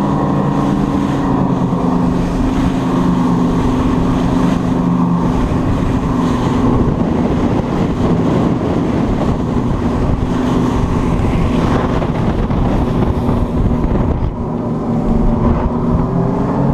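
Motor yacht tender running under way: a steady engine hum over rushing water and wind on the microphone. The engine pitch shifts near the end.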